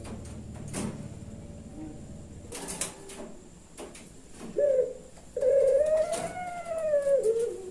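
Puter pelung dove cooing: a short note about four and a half seconds in, then one long arching coo that drops in pitch at its end. A few sharp clicks come earlier.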